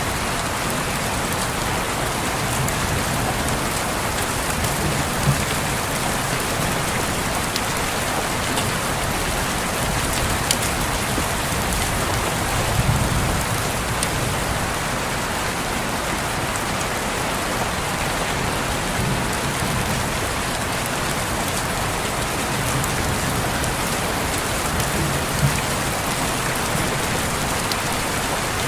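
Steady rain falling on a window, an even hiss of drops with a few sharper taps now and then.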